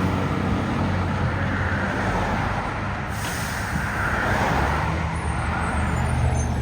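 Mack MRU front-loader garbage truck's diesel engine running, with a short hiss of air about three seconds in, typical of the air brakes.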